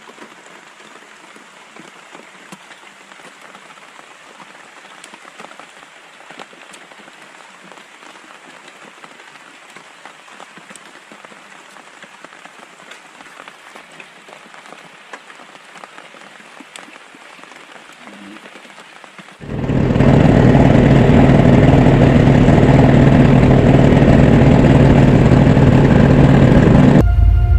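Light drizzling rain falling steadily, a fine hiss of drops. About two-thirds of the way through, a much louder steady drone with a low hum cuts in abruptly and covers the rain.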